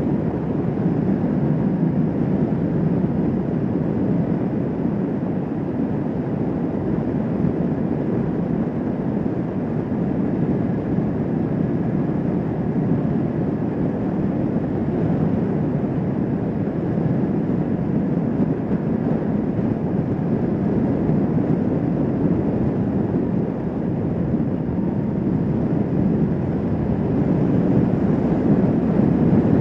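Kawasaki Vulcan S 650 motorcycle cruising at a steady speed: its parallel-twin engine drones under the rush of wind and road noise. The sound holds steady, swelling slightly near the end.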